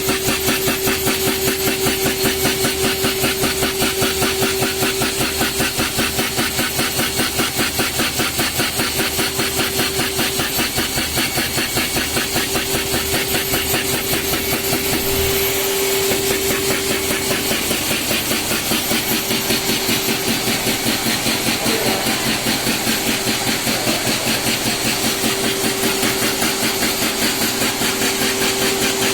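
Two-spindle CNC PCB drilling machine running: steady spindle whine under a rapid, even rhythm of drilling strokes, several a second.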